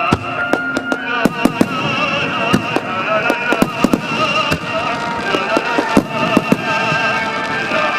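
Aerial fireworks shells bursting in rapid, irregular succession, with many sharp bangs. Music with a wavering melody plays underneath.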